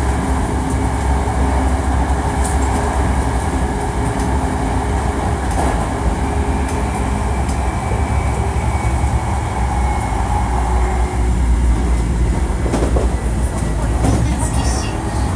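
Hankyu 1300 series electric train heard from inside the car while running: a steady low rumble of wheels on rail, with faint steady motor tones and a few short clicks from the track.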